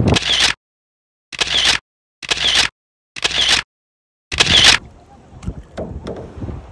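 Camera shutter sound effect, the same short click played five times about a second apart with dead silence between each, then a quiet, uneven outdoor background sound from about five seconds in.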